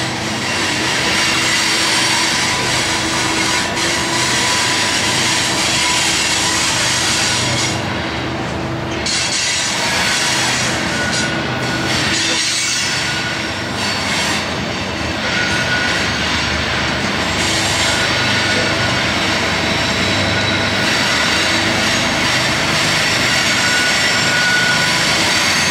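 Loaded coal cars of a freight train rolling past: steel wheels running on the rails in a steady loud rumble and hiss, with brief high wheel-squeal tones now and then.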